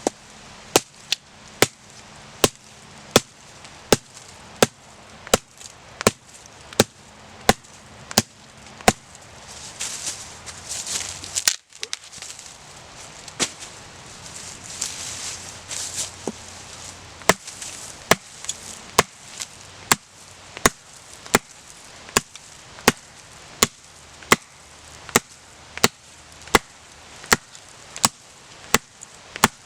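Dead oak firewood being chopped with an axe or hatchet: sharp, even strikes about three every two seconds, with a short break about twelve seconds in.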